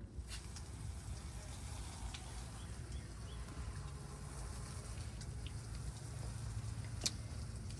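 A steady low hum with a few faint clicks and small handling noises from parts being worked by hand, and one sharper click about seven seconds in.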